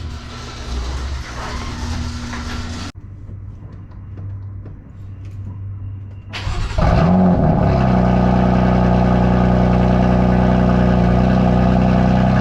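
BMW E92 M3's V8 with a loud aftermarket exhaust starting up about halfway through, catching with a brief surge and then settling into a steady, loud idle.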